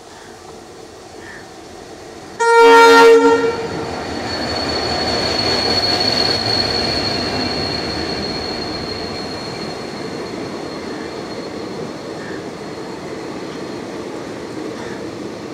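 WDP4D diesel locomotive sounding its horn in one loud blast of about a second, a couple of seconds in. The locomotive and its passenger coaches then run past on the rails, the rolling noise swelling and slowly easing off, with a thin steady high tone over it.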